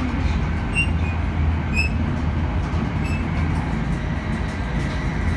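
E5 series Shinkansen running, heard from inside the passenger car: a steady low rumble with a few brief high squeaks.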